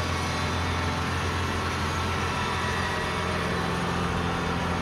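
Kubota combine rice harvester's diesel engine running steadily: a constant low drone with a strong deep hum.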